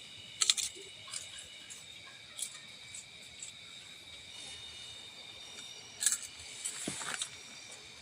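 Steady high-pitched insect chorus of several even tones, with a few sharp clicks and knocks, the loudest about half a second in and about six seconds in.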